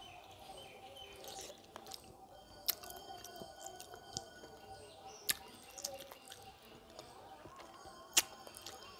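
A person chewing a mouthful of fish curry and rice, with wet mouth sounds and four sharp clicks from the lips and mouth, the loudest near the end.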